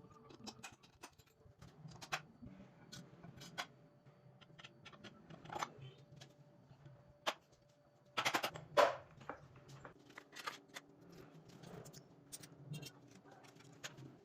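Irregular light clicks and knocks of small hard objects being handled, with a louder burst of clatter about eight seconds in, over a faint steady hum.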